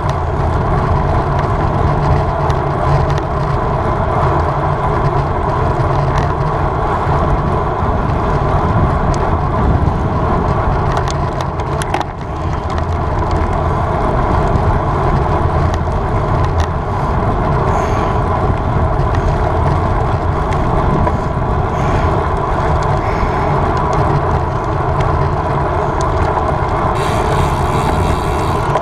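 Steady wind rush over the microphone, with tyre and road noise, from a road bike ridden at race speed.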